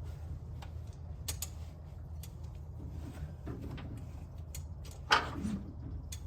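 Scattered light metallic clicks of hand tools on the engine as it is turned over by hand, with one louder clunk about five seconds in, over a steady low hum.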